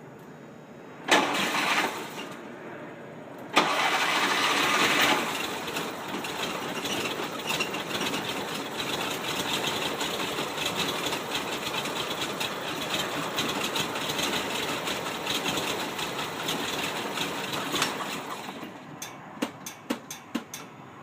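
1978 VW Super Beetle's fuel-injected 1600cc air-cooled flat-four being started: it fires briefly about a second in, catches near four seconds with a short louder spell, then runs at a rough idle. Near the end it falls off and dies in a string of sputters, the stall on acceleration that the owner takes as a sign of a fuel/air mixture problem.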